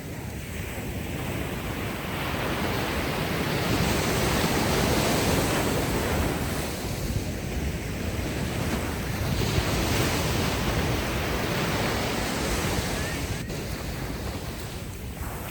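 Ocean waves washing ashore on a beach, the surf swelling and easing over several seconds, with wind noise on the microphone.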